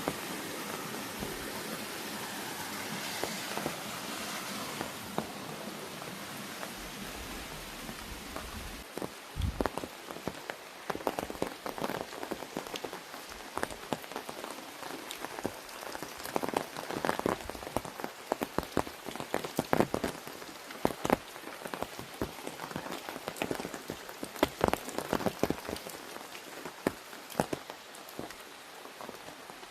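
Rain: a steady hiss for the first several seconds, then from about nine seconds in, drops striking an umbrella overhead as many sharp, irregular taps.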